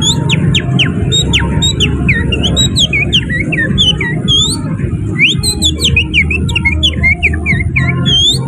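Hand-and-finger whistling imitating an oriental magpie-robin's (kacer) song: a fast, unbroken run of high whistled notes, quick up- and down-sweeps and trills, with canary-like fill-ins. A steady low rumble runs underneath.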